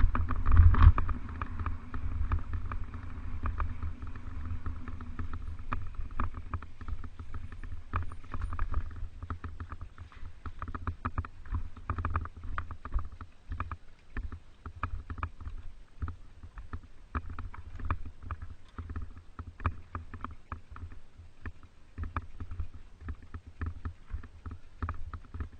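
Mountain bike rolling over rough ground: steady wind rumble on the microphone with irregular rattling clicks throughout, loudest in the first second.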